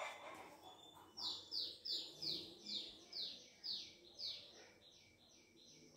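A bird chirping: a quick run of about a dozen high, downward-sliding chirps, two or three a second, growing fainter toward the end.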